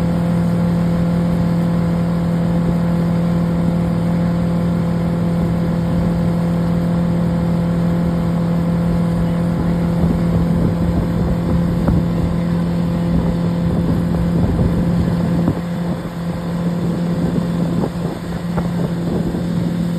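Motorboat engine running steadily at a constant pitch, towing a banana boat, over a rushing noise of wind and water.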